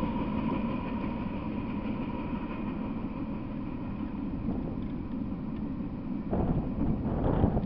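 Freight train rumbling away after its last cars clear, the rail noise slowly fading. About six seconds in, wind gusts across the microphone.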